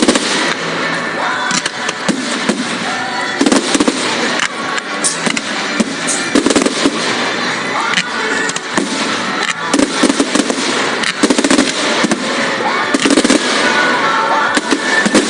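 Fireworks display: a continuous run of sharp bangs and crackles from bursting shells, over music.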